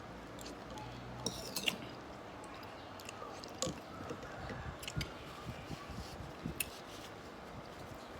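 A person eating boat noodles: wet chewing and squishing with scattered light clicks.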